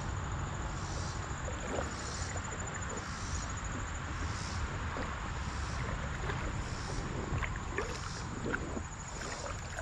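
Creek water moving and splashing around the angler while a hooked fish is played, with a few small ticks and splashes in the second half. A thin, steady high insect trill runs over it.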